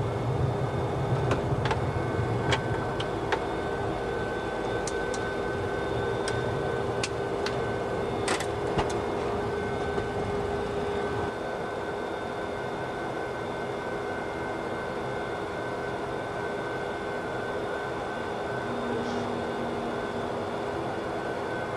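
Steady flight-deck noise of a Boeing 737-200 on the ground after landing: its Pratt & Whitney JT8D engines running and the air-conditioning hum, with a steady whine. A few sharp clicks in the first several seconds, and the noise drops a little about halfway through.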